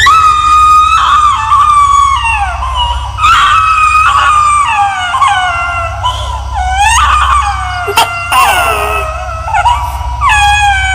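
Several overlapping high, drawn-out howls, each sliding down in pitch, with new howls starting every few seconds over a low steady drone: an eerie horror sound effect.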